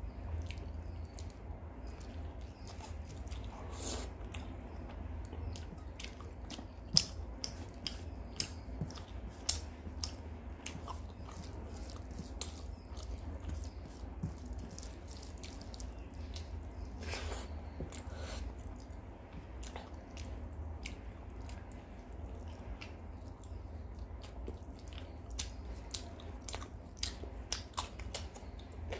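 Close-up eating sounds: wet chewing and sharp mouth clicks and smacks of someone eating rice and chicken curry by hand, with crunchy bites of cucumber near the end.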